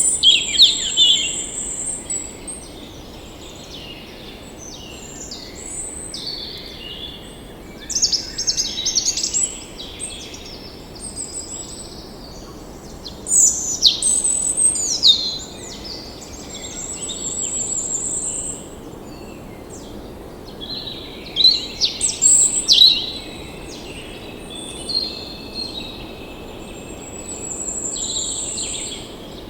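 Songbirds singing in bursts of varied chirping phrases every few seconds, with a high trill that recurs several times, over a steady background hiss.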